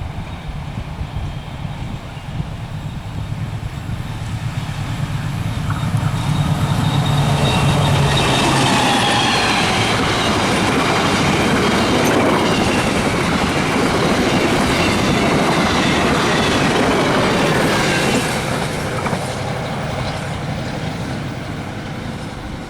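A long train passing on a curve: first the steady hum of the locomotive's diesel engine, then a long rolling rush of carriages with the wheels squealing high on the rails for about ten seconds, fading out near the end.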